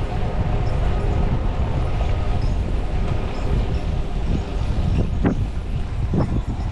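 Steady low rumble of wind buffeting the microphone, with tyre and road noise from a moving bicycle. A few short knocks come after about five seconds.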